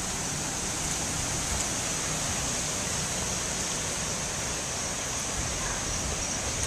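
Hurricane wind and rain: a steady rushing hiss with a low rumble underneath.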